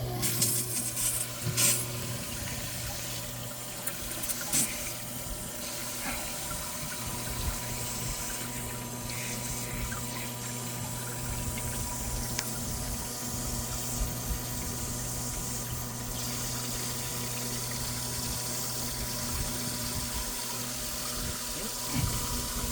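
Live well aerator pump running with a steady hum, squirting water back into the filled live well with continuous splashing. A few knocks in the first few seconds.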